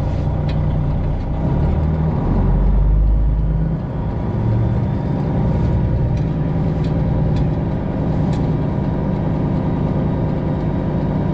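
Semi truck's Detroit Diesel 12.7-litre engine running, heard from inside the cab: a steady low diesel rumble that grows heavier about two to four seconds in, with a few light clicks later on.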